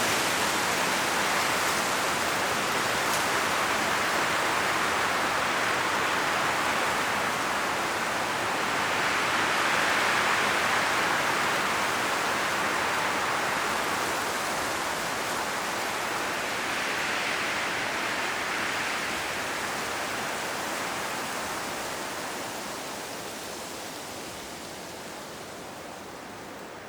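Strong wind blowing through autumn forest trees, the leaves rustling in a dense hiss. It swells in two gusts and then dies down toward the end.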